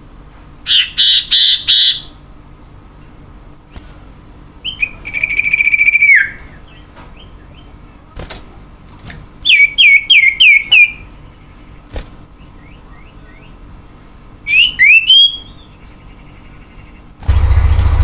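Common iora (cipoh) singing: four separate phrases of clear whistled notes with pauses between them, including a long held whistle and a run of five quick falling notes. A loud low rumble cuts in near the end.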